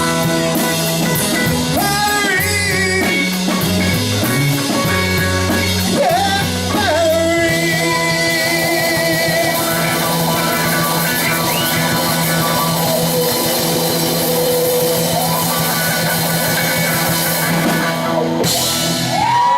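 Rock band playing with a singer, drum kit and guitar. About seven seconds in the music moves into long held notes, with a bright crash near the end.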